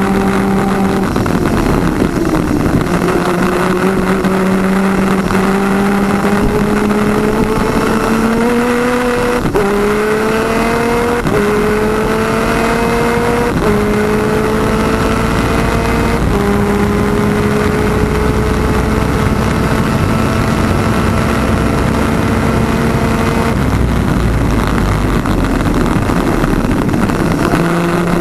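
Onboard sound of a twin-cylinder 250cc two-stroke superkart engine at full throttle. Its pitch climbs and then drops at each of several upshifts. About 23 seconds in it goes off throttle into a rougher, unpitched roar, then picks up and climbs again near the end.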